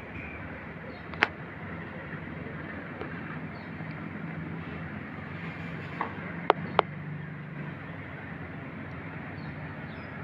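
Steady background rumble with a low hum, broken by a sharp click about a second in and three more clicks around six to seven seconds in.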